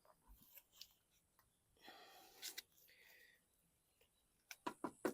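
Near silence: a few faint clicks and a short, soft hiss about two seconds in.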